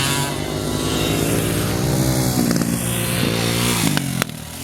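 Several children's dirt bikes running around a track, their engines revving up and falling back as they ride. A sharp click near the end, after which the engine sound drops away briefly.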